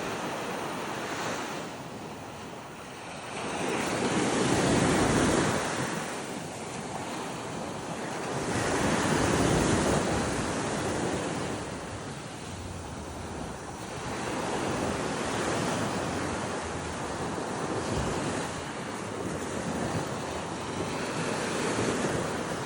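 Ocean surf washing up the beach in slow swells that rise and fall every few seconds, with wind buffeting the microphone.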